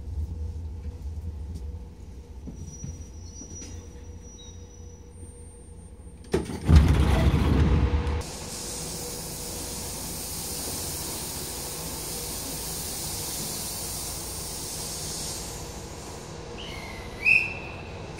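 Nagano Electric Railway 3500-series electric train car drawing to a stop, its low running rumble dying away. About six seconds in, the doors slide open with a loud burst of air. A steady hiss follows while the car stands at the platform, and a short loud tone sounds near the end.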